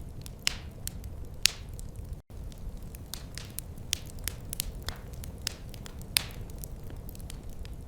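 Wood fire crackling in a fireplace: irregular sharp pops and snaps over a steady low rumble of burning, with a few louder pops. The sound cuts out for an instant a little over two seconds in.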